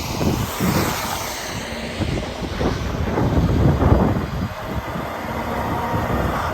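Road and engine noise from a moving car-hauler truck: an uneven low rumble that swells and dips.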